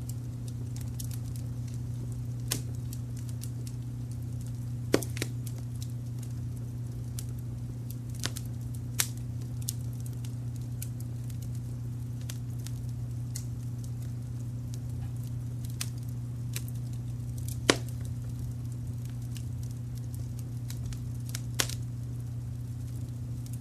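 Wood fire crackling, with sparse sharp pops scattered through, two of them louder at about five seconds and near eighteen seconds in. Under it runs a steady low brown-noise rumble.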